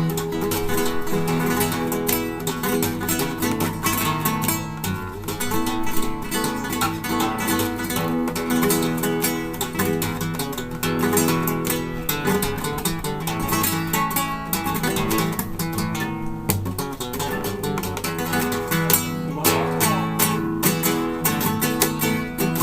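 Solo acoustic guitar being played, a continuous run of plucked notes and chords.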